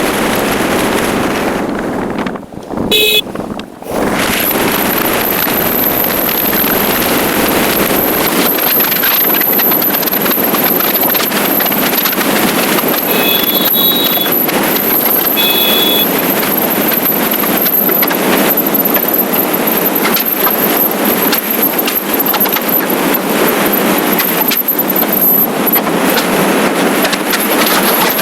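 Wind and road noise rushing over the microphone of a moving motorcycle, with a steady thin high whine. The noise drops away briefly about three seconds in, and two short horn toots sound about halfway through.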